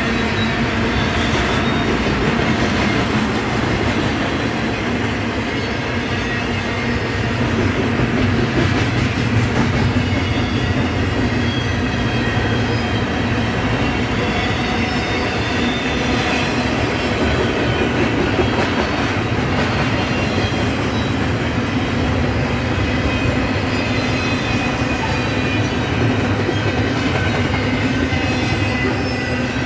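Double-stack intermodal freight train's well cars rolling past at steady speed: continuous loud wheel-on-rail rumble with clickety-clack from the trucks, and faint high-pitched wheel squeal riding on top.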